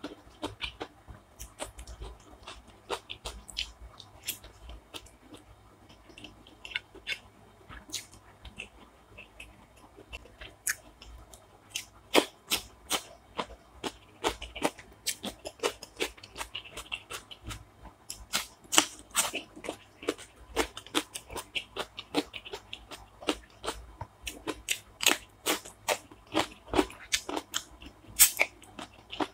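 A person chewing and crunching food close to the microphone. It is a run of sharp crunches, sparse at first and coming thicker and louder from about twelve seconds in.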